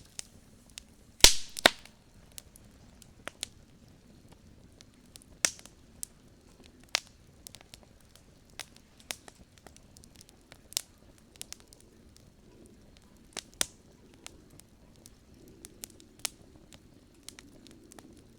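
Wood campfire crackling, with irregular sharp pops and snaps; the loudest pop comes about a second in.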